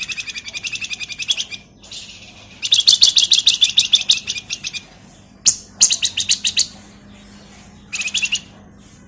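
Flamboyan (wergan Jawa, Javan fulvetta) singing in rapid, chattering trills of sharp high notes. The trills come in several bursts, the longest and loudest in the middle, with short bursts near the end.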